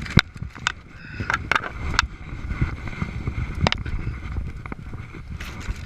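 Irregular knocks, snaps and scuffing as a dirt bike is manhandled and dragged around on a brushy slope, over a low rumbling noise; the sharpest knock comes just after the start.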